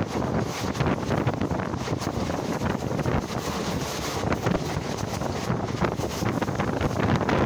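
Wind buffeting the microphone over the running noise of a passenger train moving at speed, heard from a camera held out beside the coach: a dense, steady rush with many short knocks and rattles.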